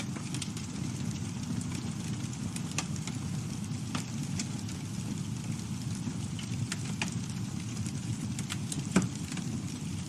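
Campfire burning: a steady low rumble with scattered sharp crackles and pops from the wood, one louder pop about nine seconds in.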